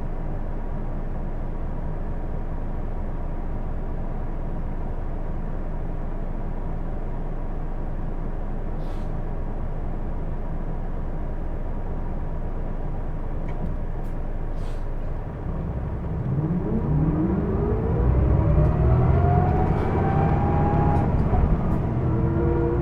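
Hino Blue Ribbon II city bus's diesel engine heard from inside the cabin: a steady low idle, then, about two-thirds of the way in, the engine note and a whine climb steeply in pitch as the bus pulls away, easing briefly and climbing again near the end as it changes gear. A few faint clicks sound during the idle.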